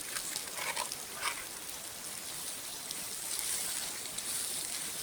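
Dried beef, bacon and onion sizzling in an old frying pan over a campfire, with a few scattered pops.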